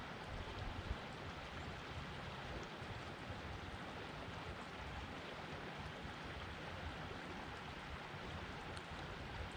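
Storm runoff flowing steadily down a normally dry desert wash: a steady rushing of water with low rumble, as of a flooded wash running after heavy rain.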